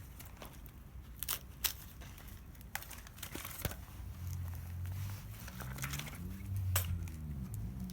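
Wood crackling and snapping in scattered sharp cracks. A low drone with slowly shifting pitch joins about halfway through.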